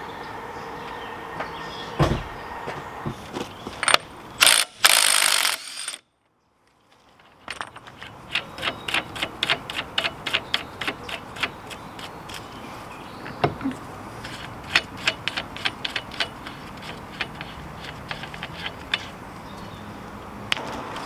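Hand ratchet wrench clicking in long even runs, about three to four clicks a second, as it turns a fastener on the brake assembly. There is a loud clatter of metal about four to five seconds in, and a short dead drop-out just after.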